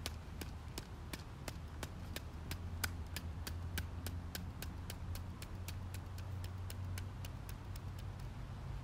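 A steady series of sharp clicks, about three a second, over a low steady hum; the clicks stop shortly before the end.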